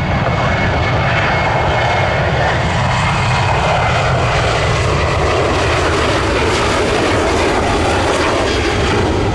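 Jet airliner taking off, its engines at takeoff power, giving a loud steady rumble.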